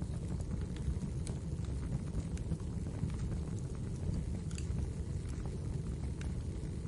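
Wood fire burning in a fireplace: a steady low rumble of the flames with sharp crackles and pops scattered irregularly throughout.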